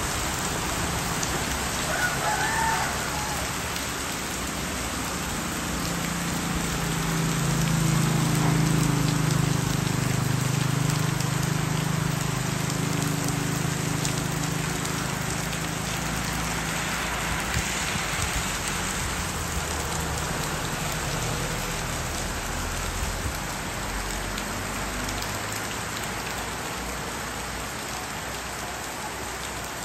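Steady heavy rain falling on a wet road and roofs. A rooster crows once, briefly, about two seconds in. A passing vehicle's engine hum swells and fades in the middle, loudest around eight to twelve seconds in.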